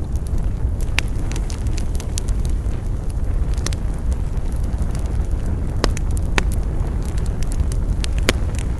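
Wood fire burning with a steady low rumble, broken by scattered sharp crackles and pops, a few louder snaps spread through.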